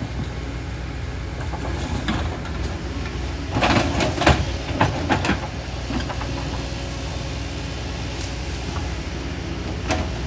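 Excavator's diesel engine running steadily, with a cluster of sharp metallic clanks and scraping a few seconds in and one more knock near the end.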